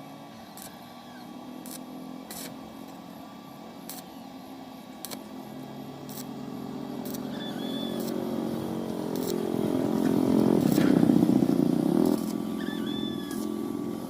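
An engine running, growing louder over several seconds and at its loudest about ten to twelve seconds in, then dropping back suddenly.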